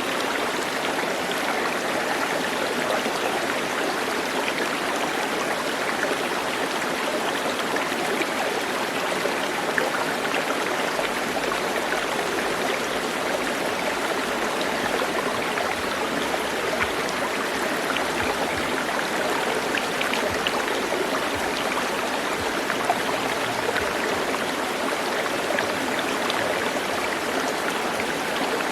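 Stream of water running steadily: an even rush of flowing water with small splashes here and there.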